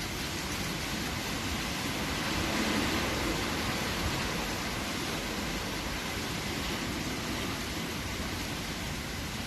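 Strong wind blowing, a steady rushing noise that swells a little about two to three seconds in.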